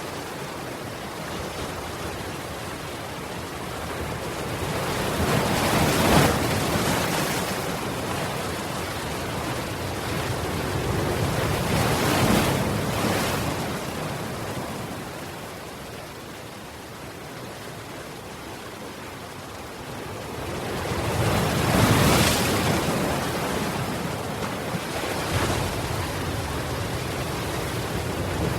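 Ocean waves breaking on the shore, the surf swelling and falling away three times, with steady background wash between breakers.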